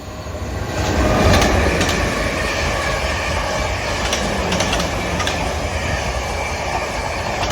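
Two coupled Class 444 electric multiple units passing through the station. The rush of wheels and air builds up over the first second and then holds steady, with scattered clicks from the wheels on the rails.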